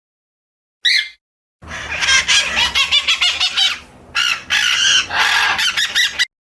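Birds calling: one short chirp, then several seconds of dense, rapid chattering calls that cut off abruptly near the end.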